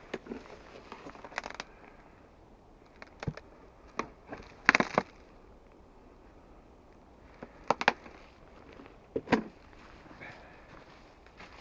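Irregular crunches and sharp knocks in small clusters with pauses between, the loudest about halfway through: someone moving about and handling things at a winter camp.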